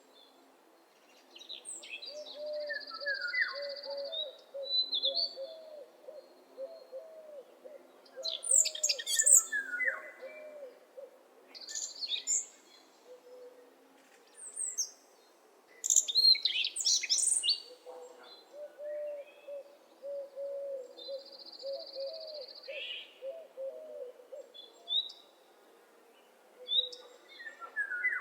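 Several birds singing and calling, with high chirps, whistles and trills. Under them a low, rapid run of repeated notes comes twice, starting about two seconds in and again about halfway through.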